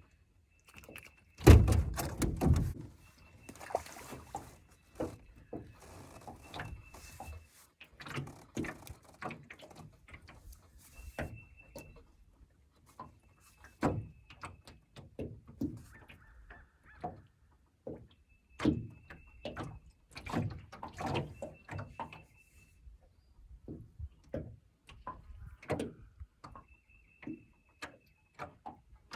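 Irregular knocks, clicks and clunks of fishing gear and a just-landed fish being handled, with a heavier thump about a second and a half in. A faint high tone comes and goes in short stretches.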